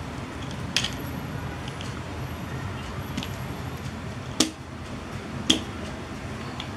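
Sharp plastic clicks from a transforming toy car robot as its parts are handled and folded: one about a second in and two louder ones in the second half, with a few fainter ticks between. Under them runs a steady low background hum.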